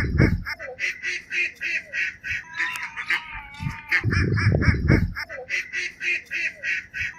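Birds calling in a rapid, evenly repeated series of nasal calls, several a second. There are two low rumbles, one near the start and one about four seconds in.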